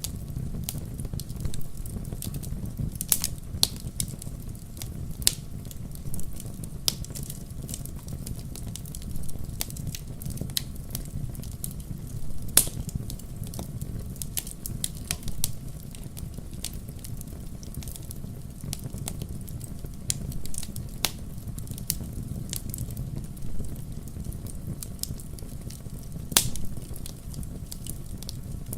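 Wood fire crackling in a fireplace: irregular sharp pops and snaps over a steady low rumble of burning, with a louder pop about halfway through.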